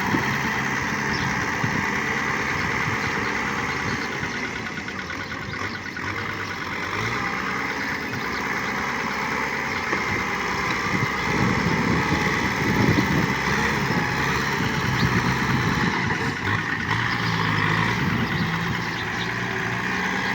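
Tractor engine running steadily, louder for a stretch about halfway through.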